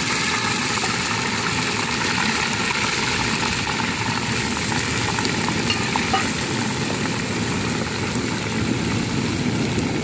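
Onion added to hot oil in a large aluminium cooking pot, frying with a steady, dense sizzle.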